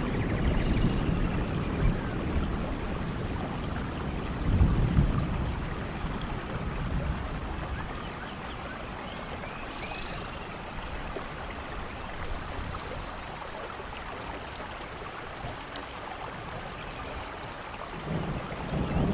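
Steady rain with low rolls of thunder near the start, again about five seconds in, and building once more near the end; a few faint high chirps over the rain.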